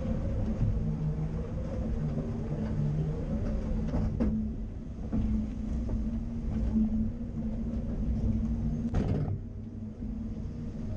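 Caterpillar 330 excavator's diesel engine running steadily, with two sharp knocks, one about four seconds in and a longer one about nine seconds in.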